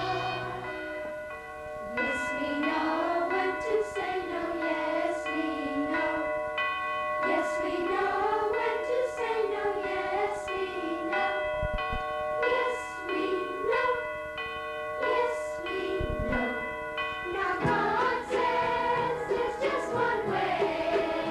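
Choral musical number with accompaniment: a single wavering melody line over sustained chords, and fuller choir singing coming in near the end.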